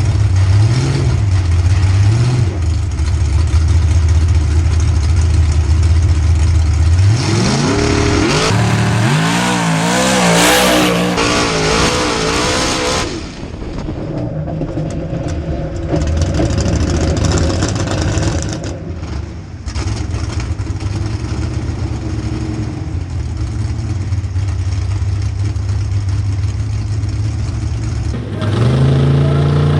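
A high-horsepower mud racing truck's engine idling, then revved up and blipped up and down through the middle, settling back to a steadier run and rising again near the end.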